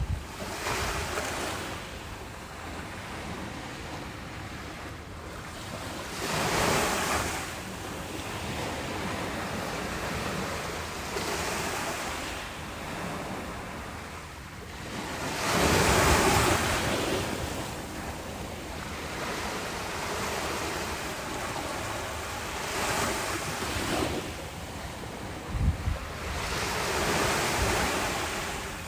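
Ocean waves breaking and washing on a beach, each surge swelling and fading every few seconds, the biggest about two-thirds of the way through. Brief low thumps of wind on the microphone come near the end.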